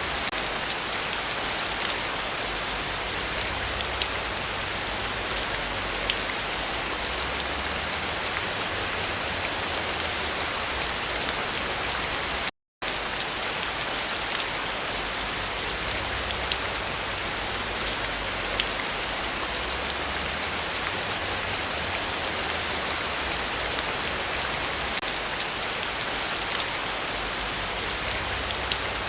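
Heavy rain falling steadily, a dense even hiss with faint scattered drop ticks. The sound cuts out completely for a split second about halfway through.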